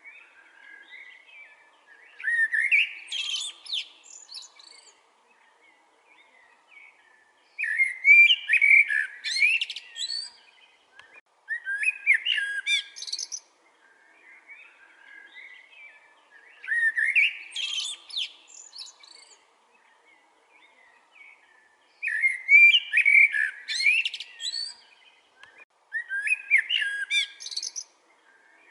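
Common blackbird singing: about six separate song phrases, each one to three seconds long, with short pauses and fainter twittering between them.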